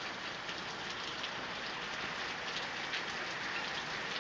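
Heavy rain falling steadily, a dense even hiss with the fine patter of many drops.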